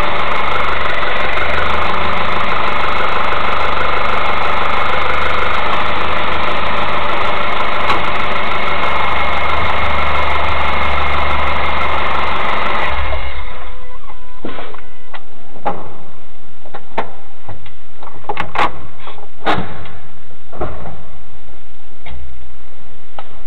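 Mazda 3 engine running steadily, then cut off abruptly about thirteen seconds in, leaving scattered sharp clicks and knocks. The owner suspects a failed engine mount.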